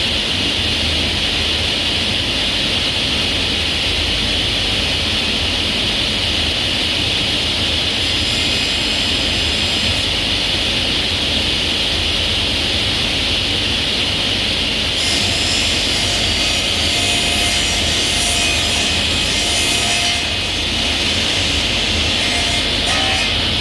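A woodworking power tool running steadily on wood, a continuous loud hiss with a low hum beneath it. It gets a little brighter for a few seconds in the second half.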